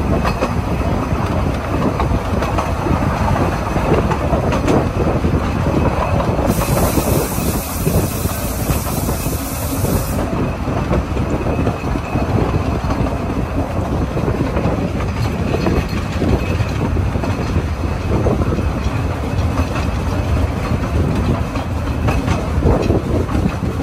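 Narrow-gauge steam-hauled train running along 2 ft gauge track, heard from an open carriage: a steady rumble and rattle of wheels on rails. A high hiss joins in for about three and a half seconds, a quarter of the way in.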